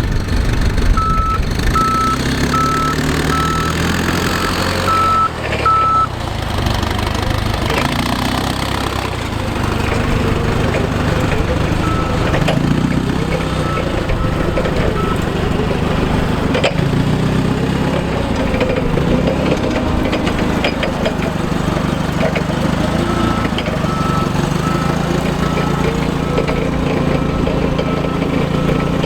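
Clark 3,000-pound forklift running, its engine pitch rising and falling as it works, while its reverse alarm beeps evenly at about one and a half beeps a second for the first several seconds, faintly around the middle, and again over the last several seconds.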